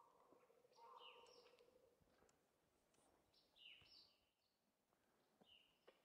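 Songbirds calling faintly in a spring forest: three short high chirping phrases about two seconds apart, with a lower warbled note about a second in.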